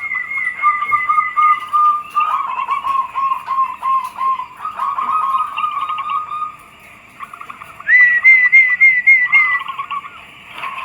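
Zebra doves (perkutut) cooing: several birds' quick strings of short coo notes overlap, one voice higher than another. There is a brief lull a little past the middle before a higher phrase starts again.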